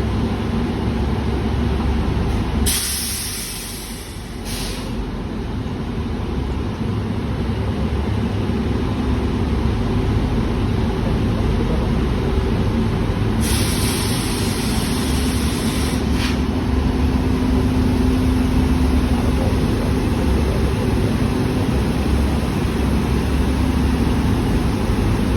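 Indian Railways train running with a steady rumble and a low hum. Two bursts of air hiss cut in, about three seconds in and again about thirteen seconds in, each lasting a second or two.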